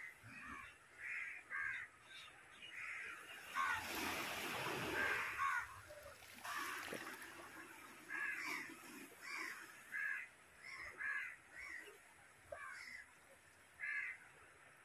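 Birds calling over and over in short separate calls, at times two or three a second, with a louder noisy burst about four seconds in.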